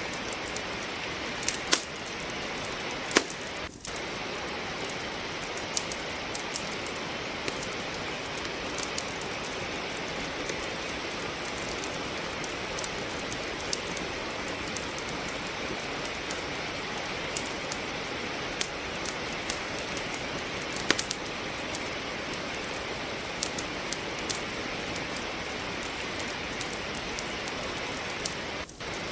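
Steady rain hiss with wood crackling in a fireplace, sharp pops scattered irregularly and a few louder ones standing out. The level dips briefly twice.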